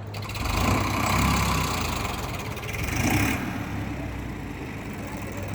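Tractor diesel engine running with a steady, fast pulsing beat, swelling louder about a second in and again around three seconds in.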